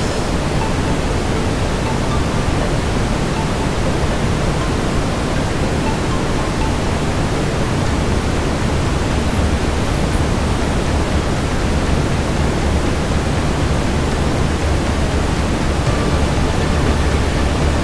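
Steady brown noise: an even, unbroken rushing hiss weighted heavily toward the low end.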